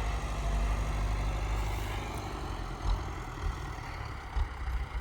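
Tractor engine running with a steady low rumble that eases slightly after the first couple of seconds, with a few brief thumps in the second half.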